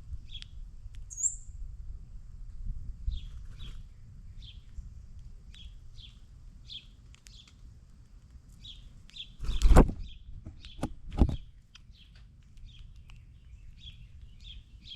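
Small songbirds chirping over and over with short, high chip notes, about one or two a second, over a low outdoor rumble. Two loud brief thumps come about ten and eleven seconds in.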